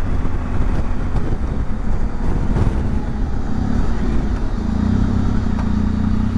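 Motorcycle engine running under way with heavy rumble of wind and road noise; about two-thirds of the way through, the engine settles into a steadier low note.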